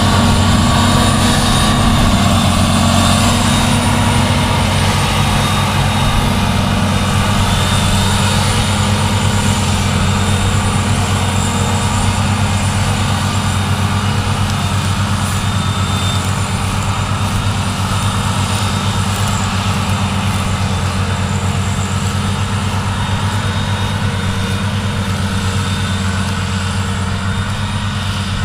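Heavy farm-machinery diesel engine running steadily, a deep even drone that fades slightly toward the end.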